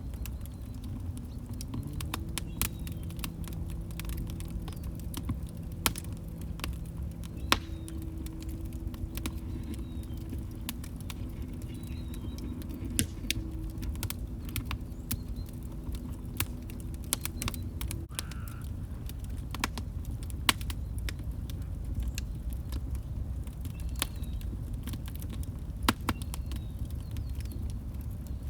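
Wood log fire crackling in a fireplace: sharp, irregular pops and snaps over a steady low rumble of the flames. A faint steady low tone sits under it from about two seconds in until a little past halfway.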